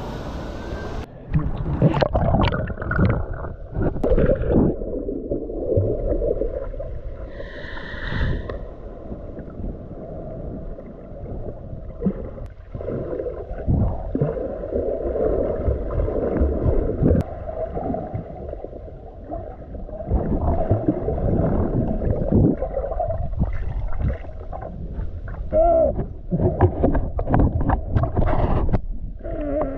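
Muffled water sloshing and gurgling with irregular knocks, as heard by a camera in or under the water while someone swims.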